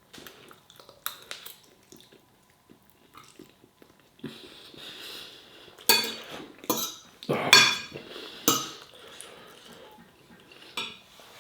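Cutlery clinking and scraping against a dish while eating. There are scattered light clicks at first, then a cluster of sharper clinks around the middle.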